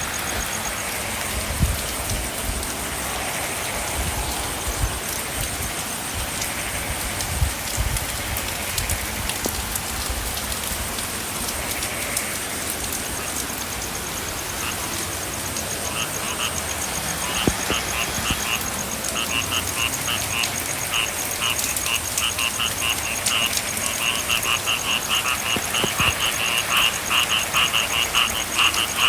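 Steady rain with frogs calling in rapid pulsing trills, which begin a little past the middle and grow denser and louder toward the end.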